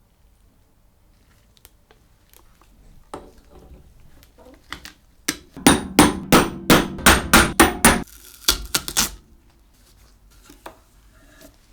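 Hammer striking in a steady run of about a dozen sharp blows, roughly four a second, then a quicker, quieter flurry of knocks.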